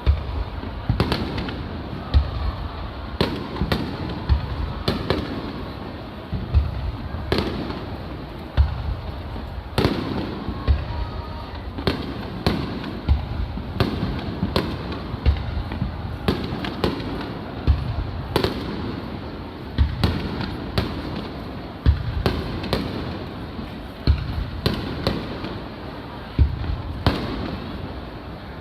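Aerial firework shells bursting one after another, a sharp boom every second or two, each followed by a rolling rumble and echo.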